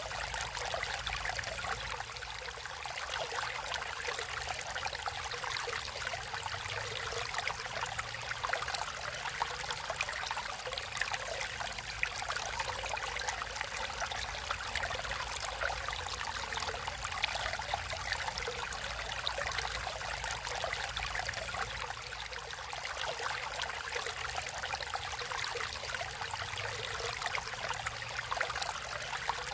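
Naturally flowing water, a stream running and trickling steadily, with a continuous fine splashing hiss.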